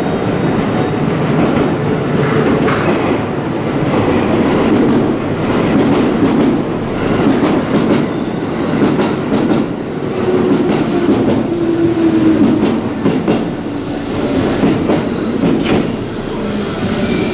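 An 8-car electric commuter train pulling into a station platform: a steady rolling rumble with wheels clacking over rail joints, and a high brake and wheel squeal starting near the end as it slows.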